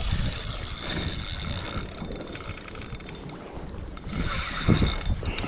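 Wind buffeting the microphone out on open water, with the sea washing around a jetski. It gets louder briefly about four seconds in.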